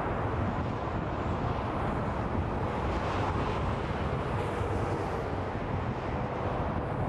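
Freeway traffic: tyres and engines blend into one steady, continuous rush that is heaviest in the low end. A faint steady whine joins it near the end.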